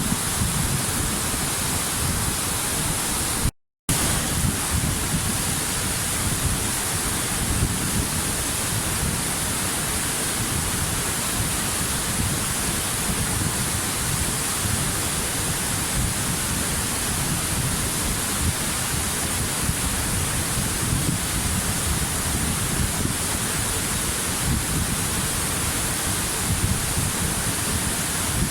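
Waterfall rushing in a steady, unbroken roar of falling water. About three and a half seconds in, the sound cuts out completely for a fraction of a second and then comes straight back.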